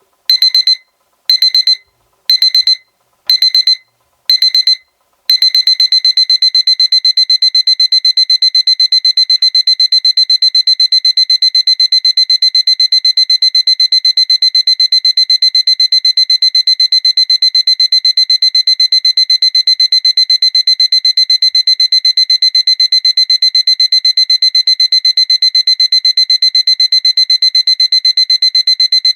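Seiko alarm clock's electronic alarm beeping at a high pitch. It sounds in short bursts of beeps about once a second, then about five seconds in switches to unbroken rapid beeping: the alarm stepping up to its more insistent stage.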